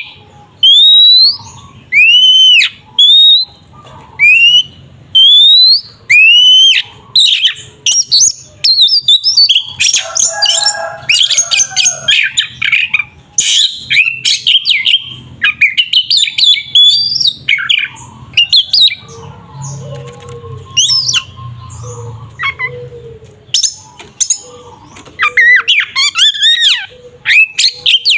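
Oriental magpie-robin (kacer) singing loudly. For the first several seconds it repeats one sweeping whistled note about once a second, then breaks into a fast, varied run of chattering notes and trills.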